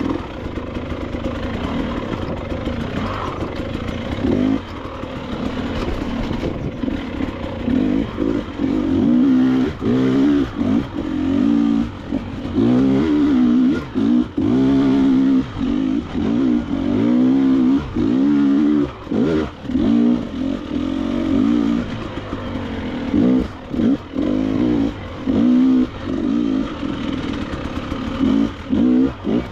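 KTM 300 XC-W two-stroke dirt bike engine ridden on a trail, revving up and down over and over, the throttle opened and shut off in quick bursts many times through the second half.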